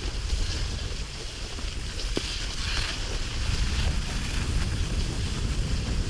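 Wind buffeting the microphone as an uneven low rumble, over a steady hiss.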